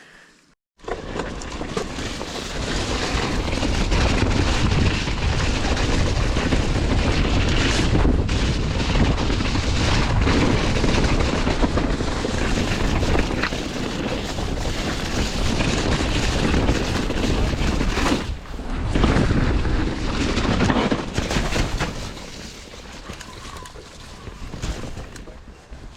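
A mountain bike riding down a wet, muddy woodland trail: a steady rush of wind on the microphone with the rattle and knocks of the bike over rough ground, starting after a moment's silence and easing off over the last few seconds.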